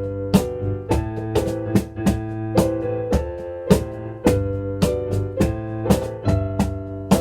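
Piano and cajón duet: piano chords and melody ring over sharp cajón slaps, about two strikes a second.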